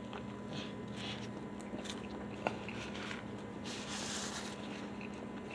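A man biting into and chewing a fried chicken sandwich with a soft bun, quiet mouth noises with a single click about two and a half seconds in. Near the end a napkin rustles as it is wiped across his mouth.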